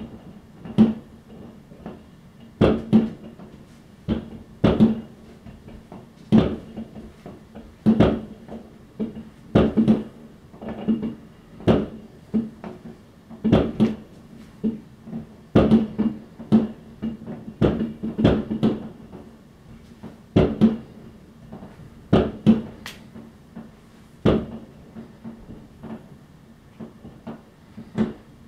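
New Year's Eve fireworks going off: an irregular string of sharp bangs, roughly one a second, some loud and close, others fainter, each with a short echo.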